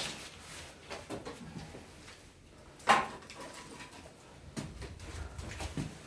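Scattered light knocks and clicks, with one sharper knock about three seconds in that rings briefly.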